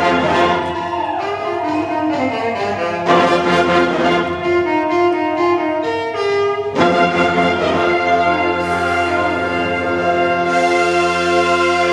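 Wind band playing sustained, full brass-led chords, with new loud entries about three and seven seconds in.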